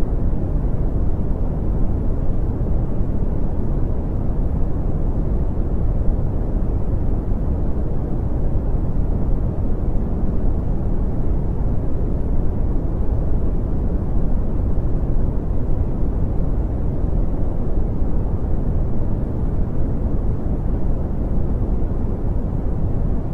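Brown noise: a steady, deep rumbling hiss, strongest in the bass and falling away in the treble, with no changes.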